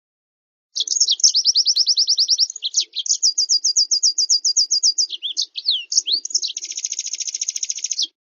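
Recorded small songbird song used as a training 'master' for white-eyes: rapid trills of high down-slurred notes at about a dozen a second, broken by a few varied slurred whistles, ending with a fast buzzy trill. It starts just under a second in and cuts off abruptly near the end, with dead silence on either side.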